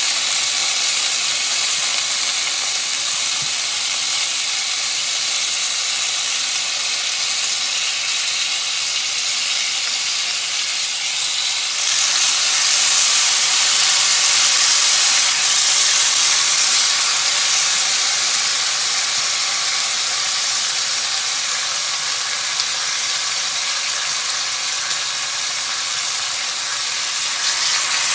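Marinated chicken thighs sizzling as they sear in hot oil in a skillet, a steady frying hiss that grows louder about twelve seconds in.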